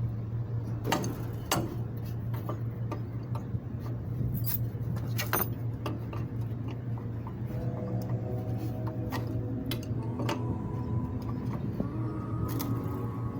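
Scattered sharp clicks and light clinks over a steady low hum, with faint held tones coming in from about halfway through.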